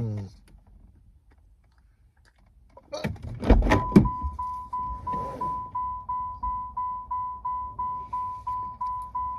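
A few clicks and knocks, then a car's warning chime that beeps steadily about three times a second, the kind a car gives while a door is open or the key is left in.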